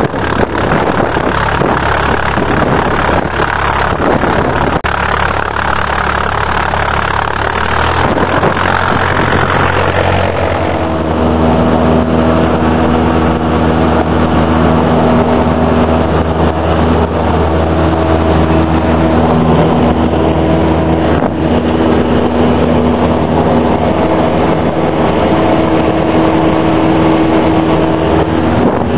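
Cessna 172's engine and propeller roar heard inside the cabin, steady and loud. About ten seconds in, the sound shifts from a hissy, wind-filled rush to a steadier drone with clear humming tones.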